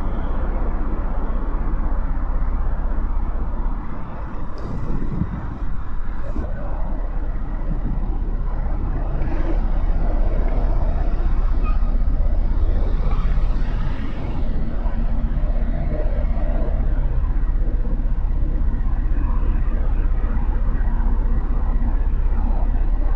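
Motorcycle on the move through city traffic: its engine running under steady wind noise on the microphone. The sound dips briefly about four to six seconds in.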